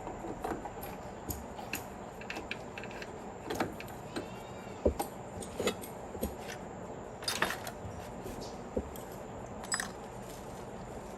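Scattered metallic clinks and knocks of tools and parts being handled during tractor repair work, irregular and light, with the sharpest knocks around the middle.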